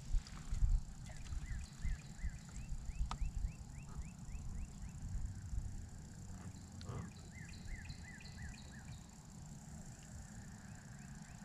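A bird calling in two runs of short, quickly repeated slurred notes, the first about a second in and the second near the middle, over a steady low rumble.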